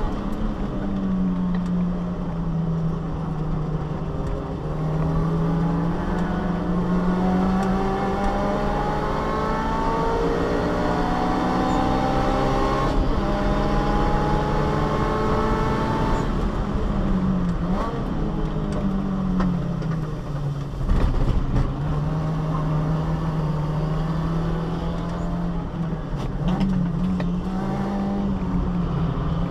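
Subaru Vivio's small four-cylinder engine, heard from inside the cabin, running hard at racing pace. Its pitch climbs slowly through long pulls and dips sharply a few times as the driver lifts off or changes gear, with a brief louder burst about two thirds of the way in.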